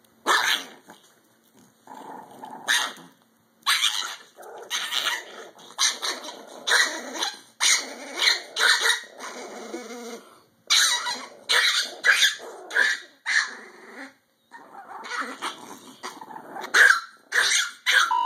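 A pet dog guarding her chew toy, barking sharply again and again between stretches of growling.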